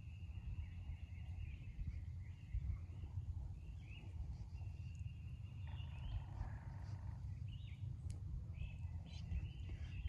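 Wild birds singing, with repeated high held whistles and short slurred phrases, over a steady low rumble. A short burst of noise comes about six seconds in.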